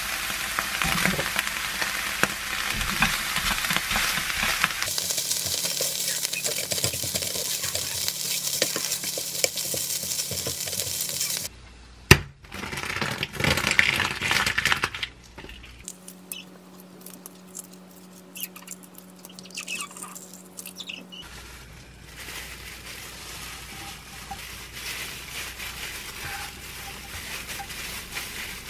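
Diced tuna and vegetables sizzling in a nonstick frying pan while being stirred with a spatula, for about the first eleven seconds. The frying then stops abruptly, giving way to quieter kitchen handling sounds with a sharp click about twelve seconds in.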